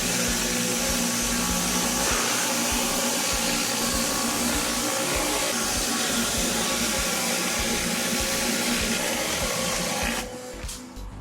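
Pressure washer running and spraying steadily, a machine hum under the hiss of the water jet; it cuts off about ten seconds in.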